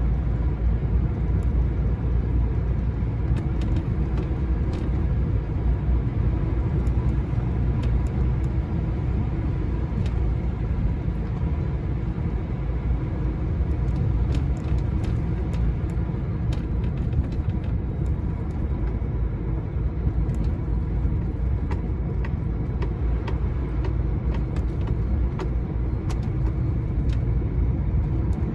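Steady low rumble of a lorry driving, as heard inside its cab, with engine and road noise running evenly and a few faint ticks scattered through.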